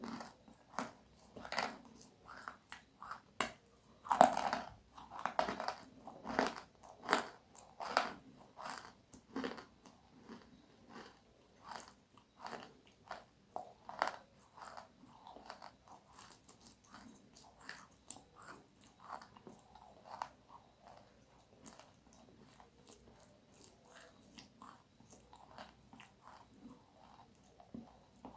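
Close-miked crunching and chewing of crispy food. Loud, rapid crunches come thickly for the first ten seconds or so, then give way to softer, more widely spaced chewing crunches.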